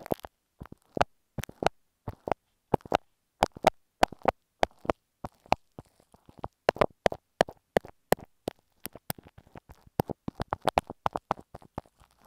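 Glue stick worked close against an earphone microphone, giving sharp, sticky clicks and pops in an irregular run, some bunched in quick clusters.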